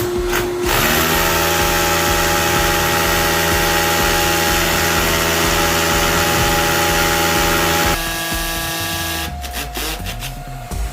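Handheld electric power tool motor spinning up about a second in, running steadily at constant speed for several seconds, then changing pitch and stopping near the end.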